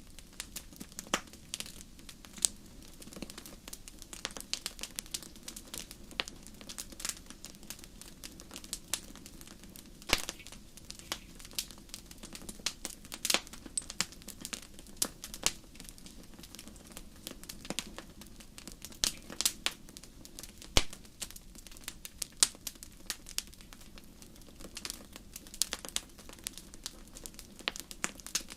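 Wood fire crackling in a fireplace: irregular sharp pops and snaps, a few louder than the rest, over a steady low rushing of the flames.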